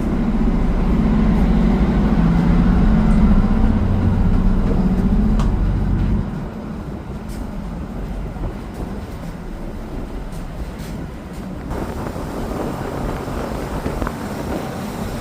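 Heavy engine running with a steady low rumble, which drops off abruptly about six seconds in, leaving a quieter steady noise.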